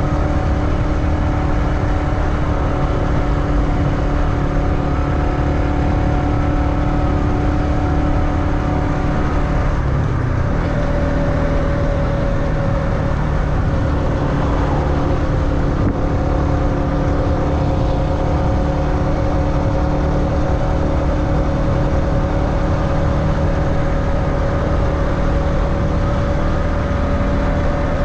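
Motorbike engine running steadily while riding; its note changes about ten seconds in, then holds steady again.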